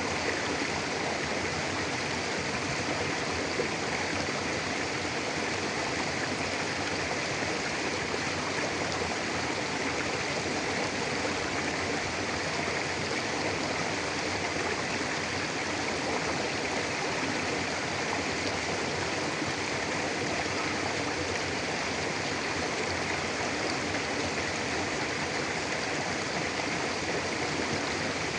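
Mountain river flowing steadily over rocks: a continuous, even rush of water.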